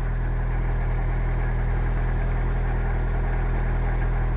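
1985 Toyota MR2's engine idling steadily.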